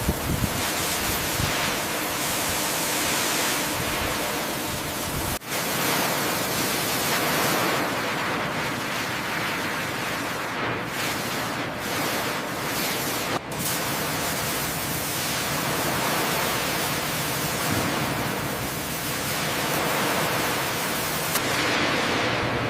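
Steady, loud rushing noise with no distinct events, like surf or spray, broken by two very brief dropouts about five seconds in and about thirteen seconds in.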